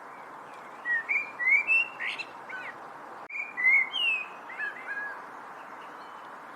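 A songbird singing two short phrases of clear, sliding whistled notes, the first about a second in and the second a little past the middle, over a steady background hiss.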